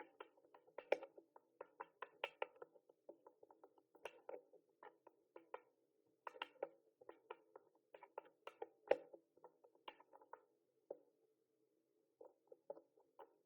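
Typing on a mechanical keyboard: quick, irregular key clicks in runs, pausing briefly about six seconds in and again near eleven seconds.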